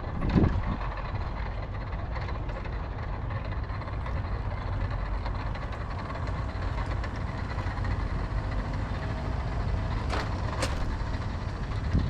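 Tomos moped's small two-stroke engine running steadily under way, heard under a dense low rumble. Two sharp clicks sound about ten seconds in.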